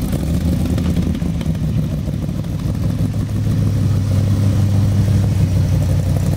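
Shelby Cobra-style roadster's V8 engine running at low speed as the car rolls slowly past, a steady deep tone that grows stronger in the last couple of seconds.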